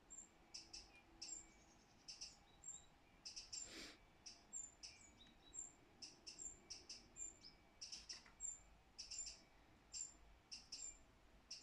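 A small bird chirping repeatedly: short, high chirps, roughly two a second at uneven spacing. One louder click comes about four seconds in.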